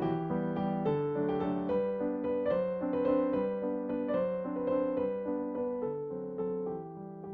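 Background piano music, a gentle melody of soft notes over sustained chords.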